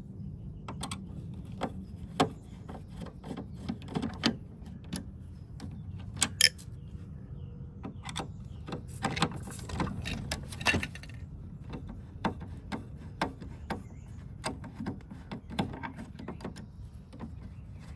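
Irregular clicks, knocks and rattles of plastic side panels and screws being worked loose from a portable air conditioner, over a low steady hum.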